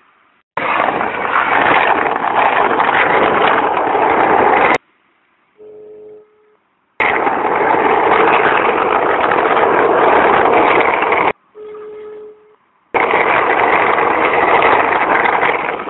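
Loud rushing noise in three long stretches, each stopping abruptly, with two short, steady telephone-like beep tones in the quiet gaps between them.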